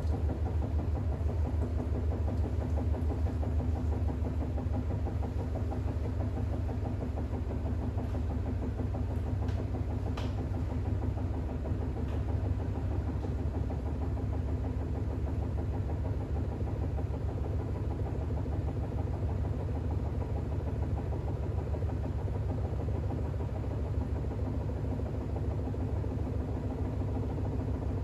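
Bosch WAX32GH1 front-loading washing machine's drum spinning with an unbalanced load of towels during the intermediate spin, giving a steady low hum with a fast rhythmic pulse.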